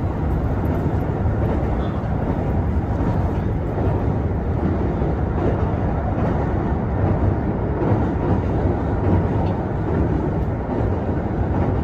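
Kintetsu Hinotori express train running at speed across a truss bridge, heard from inside the car: a loud, steady rumble of wheels on rails.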